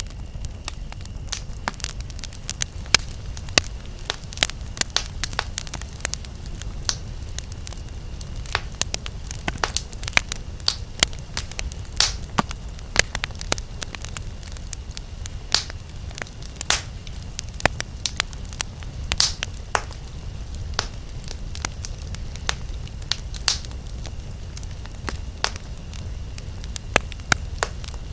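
Wood campfire crackling: frequent, irregular sharp pops and snaps over a steady low rumble of the burning fire. A faint thin steady high tone sits under the fire for the first several seconds, then fades.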